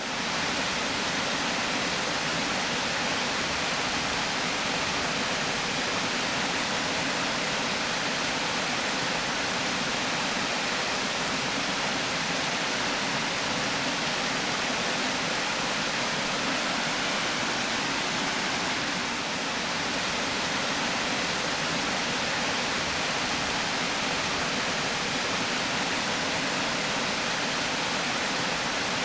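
River water pouring steadily over a weir, a constant rushing noise.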